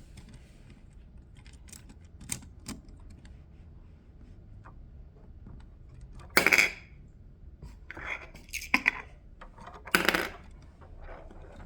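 Plastic Lego pieces being handled: scattered small clicks, with louder clattering rattles about six and a half, eight and a half and ten seconds in.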